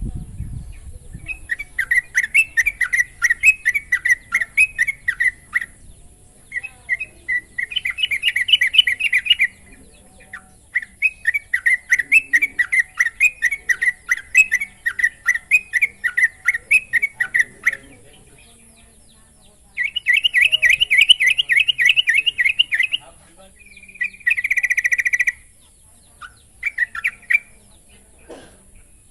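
Yellow-vented bulbul (trucukan) singing: bursts of quick bubbling notes, phrase after phrase with short pauses between them, the later phrases shorter.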